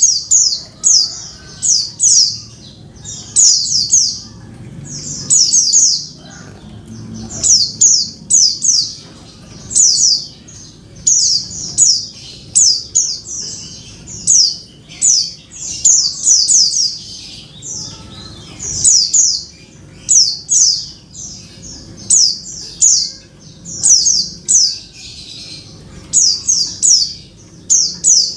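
Female white-eye (pleci) calling: short, high, downward-slurred notes in quick clusters of two to four, repeating every second or two. It is a female's call to a male, used as a lure to get male white-eyes singing.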